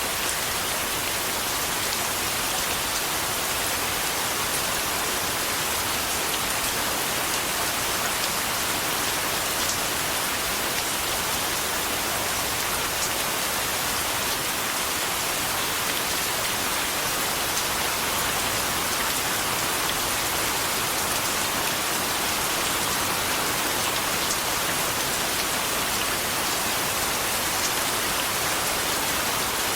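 Steady rain falling: an even hiss of many drops, with a few faint ticks of single drops standing out now and then.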